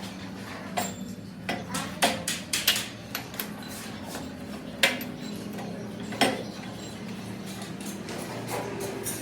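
Metal tools and parts being handled on a workbench: about ten irregular metallic clinks and knocks, most in the first three seconds, the loudest about five seconds in, over a steady low hum of a running machine.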